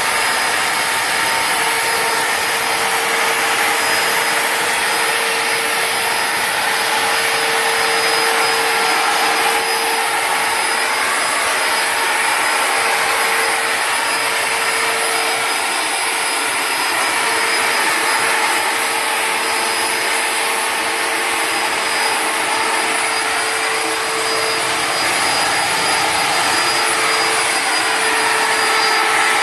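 Homemade turbocharger jet engine running steadily: a loud rush of air with a high, even turbine whine that holds its pitch throughout.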